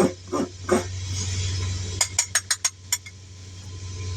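Metal hand tools clinking as they are handled: a quick run of about six sharp clicks about two seconds in, over a steady low hum.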